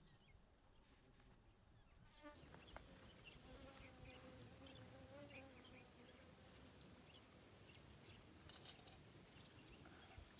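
Faint outdoor quiet with a flying insect buzzing by. It comes as a thin, wavering hum for a few seconds about a third of the way in, with a few faint clicks near the end.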